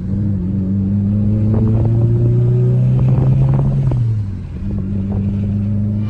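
Car engine running, its pitch holding and edging up, then dropping off about four seconds in before settling into a steady lower hum.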